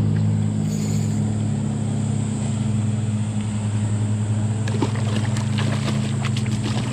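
A steady low engine hum that holds one pitch throughout, with a few faint clicks about five seconds in.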